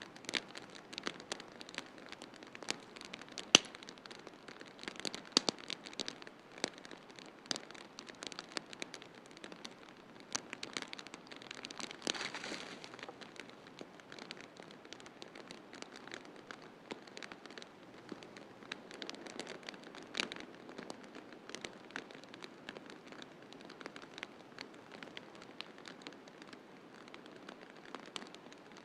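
Wood fire crackling in a fireplace, with frequent irregular sharp pops, one loud pop about three and a half seconds in, over a steady hiss of snowstorm wind.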